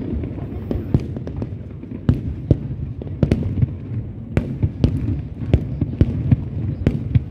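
Aerial fireworks going off: a rapid, irregular run of sharp bangs over a continuous low rumble of bursting shells.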